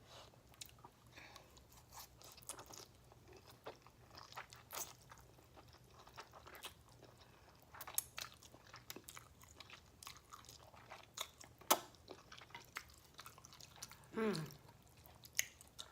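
A person chewing mouthfuls of ramen noodles close to the microphone: faint, irregular wet clicks and smacks, a few of them louder. There is a brief, falling vocal sound near the end.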